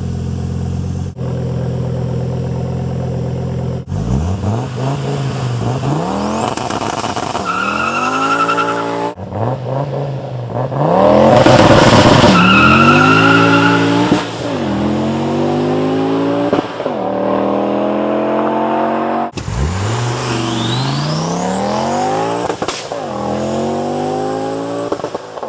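Car engines accelerating hard, the engine note climbing and dropping back at each gear change, in several short clips cut one after another. The loudest pull is about 11 to 13 seconds in.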